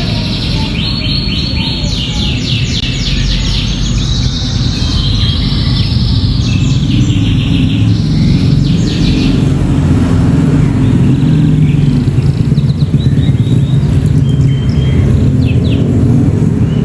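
Domestic canary singing rapid, chopped trills that are thick for about nine seconds and then sparser; it is a canary tutored with bar-winged prinia (ciblek) song. A loud low rumble runs underneath and swells in the second half.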